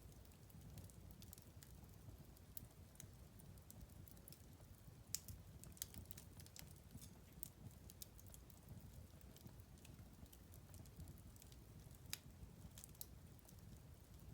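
Wood fire crackling faintly in a fireplace: irregular sharp snaps and pops over a low rumble, with a few louder pops about five seconds in and again about twelve seconds in.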